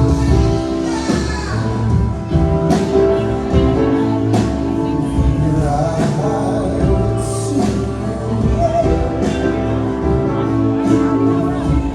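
Live band playing a slow instrumental passage: held chords over bass and drums, with cymbal strikes every couple of seconds.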